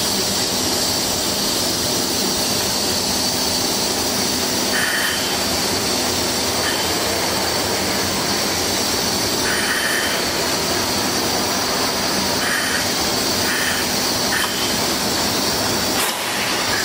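Steady running noise of a train heard from inside the driver's cab as it moves slowly, with several short high squeals at irregular intervals.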